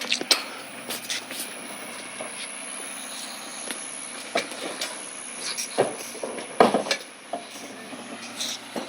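Recycling truck running in the background, with scattered knocks and clatters over it; the loudest come just after the start and again at about six and a half seconds.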